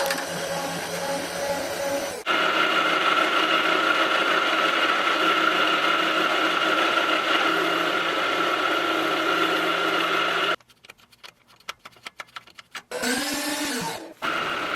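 Electric drill boring holes through 1/2-inch steel plate for plug welds: a steady whine under load that stops abruptly, a few seconds of clicks, then the drill spinning up and drilling again near the end.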